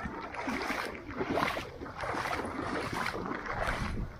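Floodwater splashing and sloshing around boots as someone wades through ankle-deep water in a flooded street, an uneven watery churning.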